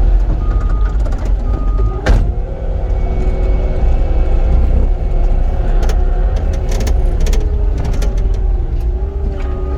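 Cat 259D compact track loader's diesel engine running steadily under work, its pitch dipping briefly near the end. A backup alarm beeps a few times at the start, and there is a sharp knock about two seconds in.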